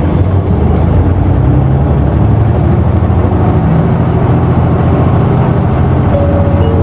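Isuzu Erga city bus's six-cylinder turbo-diesel heard from inside the cabin, pulling away from a stop and revving up under acceleration through the low gears.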